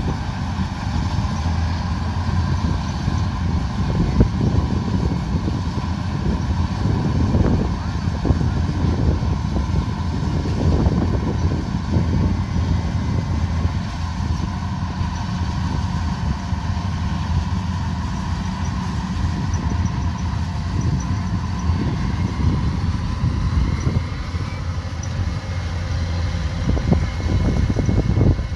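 Kubota DC105X combine harvester running steadily under load, a dense low engine drone with a faint steady whine above it.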